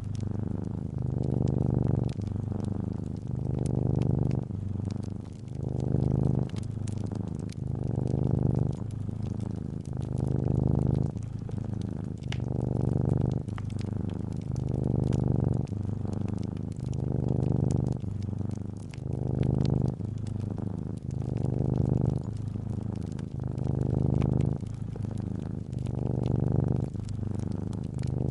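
Calico cat purring steadily, the purr swelling and easing about every two seconds as the cat breathes in and out. Faint crackles from a fireplace are scattered over it.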